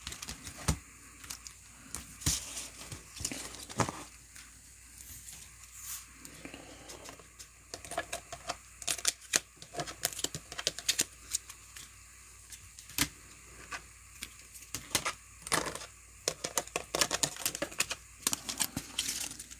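Trading cards and their plastic holders being handled and sorted on a table: irregular sharp clicks and taps with light rustling between them, thickest near the middle and again in the last few seconds.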